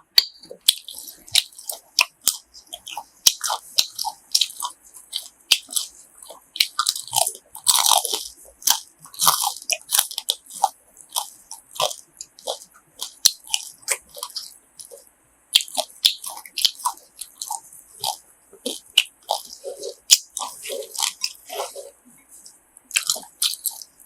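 Close-up chewing of crunchy grilled pork offal: an irregular run of crunches and wet bites, several a second.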